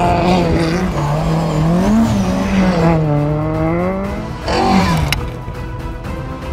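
A rally car's engine revving on a gravel stage, its pitch rising and falling, with a brief sharp rev about four and a half seconds in before it fades out; music plays underneath.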